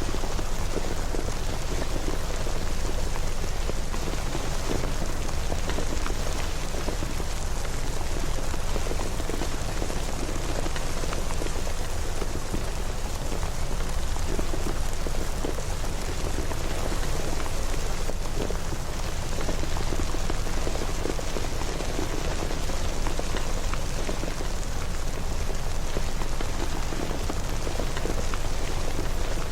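Steady, even rain with a dense patter of drops and a low rumble underneath.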